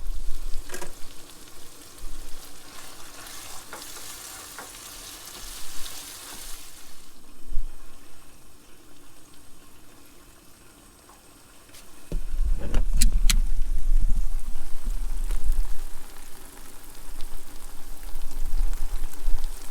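Chorizo sizzling as it fries in a pan, a steady high hiss that fades after about seven seconds. From about twelve seconds in, a heavy low rumble of wind buffeting the microphone takes over, with two sharp clicks just after it starts.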